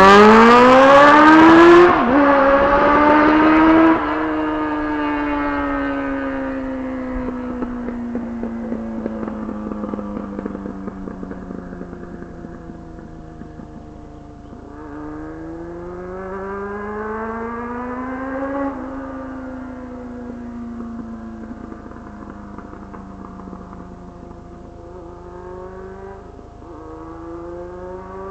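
Kawasaki 750 two-stroke triple motorcycle engine revving. Its note climbs steeply and very loudly over the first two seconds, then sinks slowly and grows quieter over about ten seconds. After that it rises and falls again several times at a lower level.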